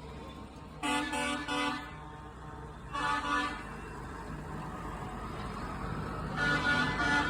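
A parade vehicle's horn honking: a quick run of three toots about a second in, another short toot about three seconds in, and more toots near the end, over the low, steady rumble of vehicle engines.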